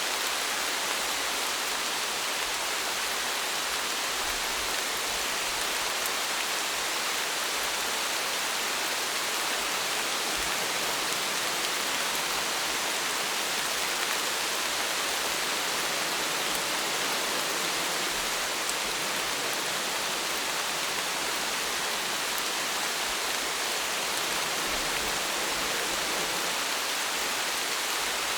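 Steady rainfall: an even, unbroken hiss of rain, with no single drops or thunder standing out.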